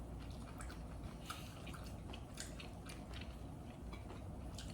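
A person chewing food quietly, with scattered small clicks.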